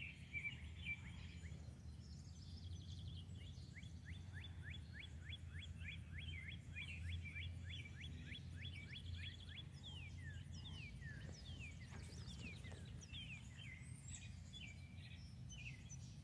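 Songbirds singing and chirping, including a long run of quick, even, down-sweeping notes at about four to five a second, followed by more varied calls. A steady low hum sits underneath.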